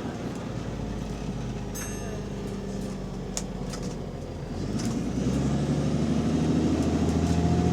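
A bus's diesel engine heard from inside the bus, running low and steady, then rising in level about four and a half seconds in as it pulls away under load. The exhaust has a leak. A few sharp clicks and rattles sound over it.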